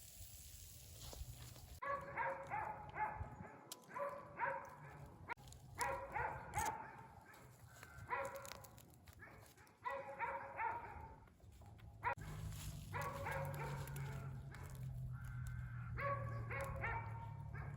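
A dog giving short, repeated cries in bursts every second or two, with a low steady hum coming in partway through.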